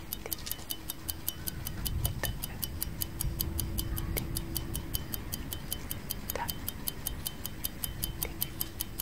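Clock ticking sound effect: fast, even ticks, about four a second, over a faint low hum, with a few softer knocks scattered among them.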